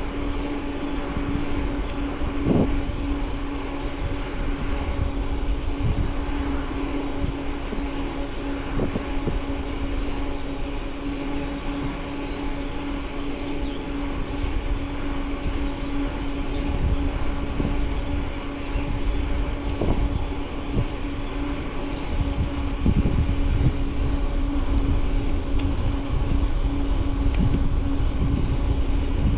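Riding noise from a bicycle on the move: low rumble and small knocks and rattles as it rolls over the path, with wind on the camera's microphone, under a steady unchanging hum.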